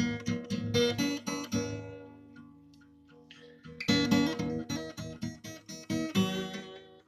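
Acoustic guitar strummed in chords; about two seconds in the strumming stops and a chord rings out and fades for a couple of seconds before the strumming starts again.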